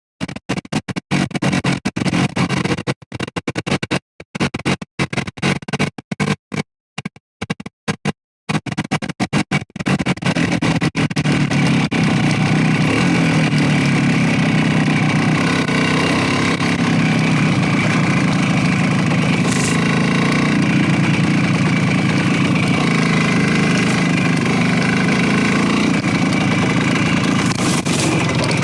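Motorcycle engine running at a steady speed while riding. For roughly the first ten seconds the sound stutters and keeps cutting out to silence, then it runs steadily.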